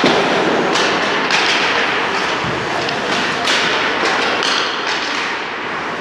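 Ice hockey game sounds in a rink: a series of sharp knocks and thuds from puck, sticks and players hitting the boards over a steady din of arena noise.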